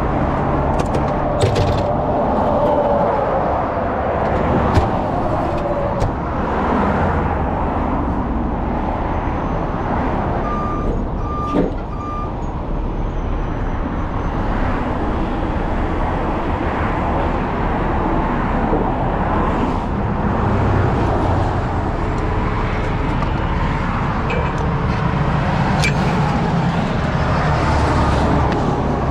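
Heavy diesel truck engine running steadily, with a few sharp clicks and three short beeps about eleven seconds in.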